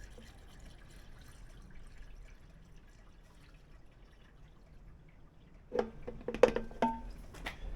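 Liqui Moly engine flush pouring from its ring-pull can into the engine's oil filler, a faint trickle. Near the end come several sharp clicks and knocks, with a brief ring, as things are handled.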